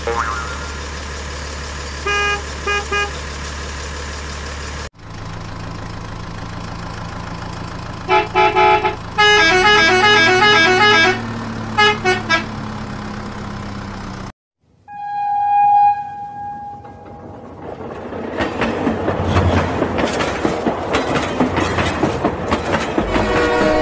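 Battery-operated toy vehicles: a steady motor hum with short electronic horn beeps, then a run of rapid electronic beeping tunes over the hum. About fifteen seconds in comes one long horn toot, then a toy train clattering along plastic track for the last several seconds.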